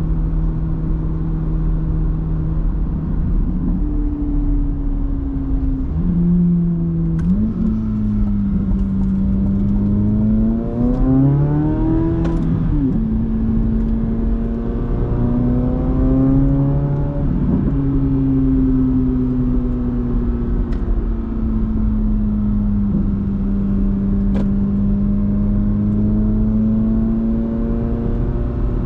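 Chevrolet Corvette C8 Z06's naturally aspirated 5.5-litre flat-plane-crank V8 running while driving. Its pitch steps a few times early on, then climbs in a rev about ten seconds in and falls sharply. A second, gentler climb follows before it falls again and settles into a steady cruise.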